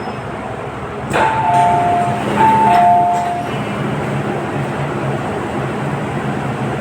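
A two-note falling ding-dong chime sounds twice about a second apart on an MTR train. It plays over the train's steady running rumble, like the chime that comes before an onboard announcement.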